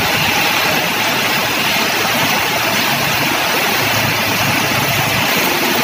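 Steady hiss of heavy rain and water on a flooded road, with vehicle engines running as traffic passes through. A low engine hum comes up about three seconds in.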